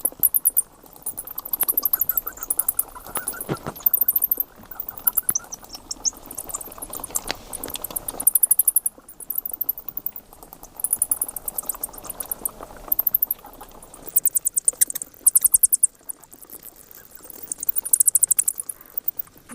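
Bat giving high-pitched chittering calls: bursts of very rapid, shrill clicks about a second long, coming every couple of seconds.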